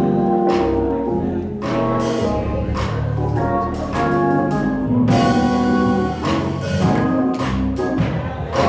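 Gospel church band music: held organ chords over a steady drum beat.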